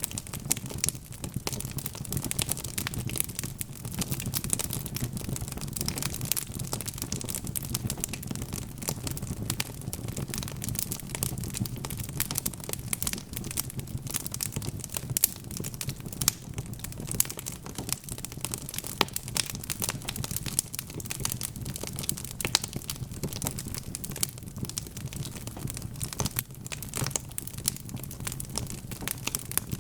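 Wood fire crackling: a constant, irregular stream of small pops and snaps over a low, steady rumble.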